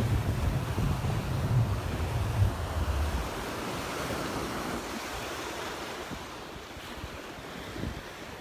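Small surf washing onto the beach in a steady wash, with wind buffeting the microphone as a low rumble for the first three seconds or so before it dies down.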